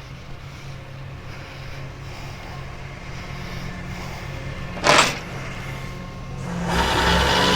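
A tow truck's engine idling steadily, with a single sharp knock about five seconds in; near the end the engine sound grows louder and rougher.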